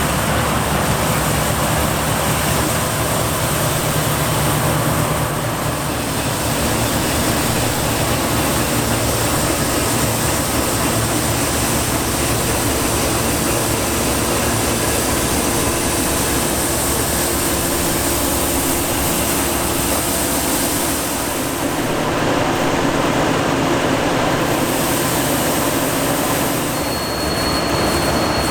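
Heavy harvest machinery running steadily: a dense mechanical noise over a low engine hum. A thin high whine comes in near the end.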